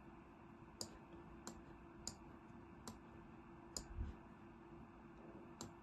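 Six sharp computer mouse clicks at uneven intervals over a faint steady hum.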